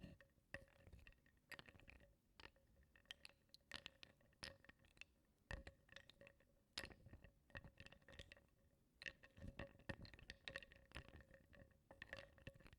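Small wooden blocks being stirred in a bowl of water, clicking and knocking against each other and the bowl in quiet, irregular taps.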